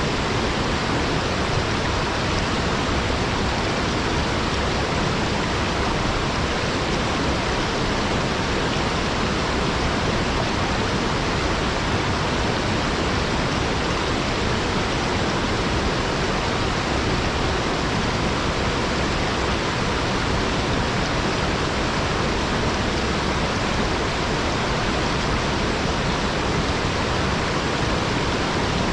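Small waterfall spilling down a rock face: a steady, unbroken rush of falling water.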